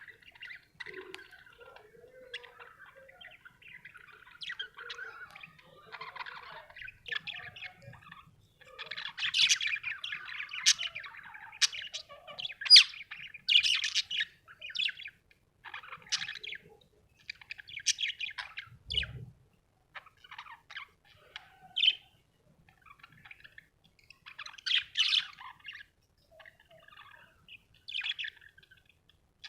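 Budgerigar chirping and chattering in irregular runs of short high chirps, soft at first and then busier and louder about a third of the way in, with scattered calls after that.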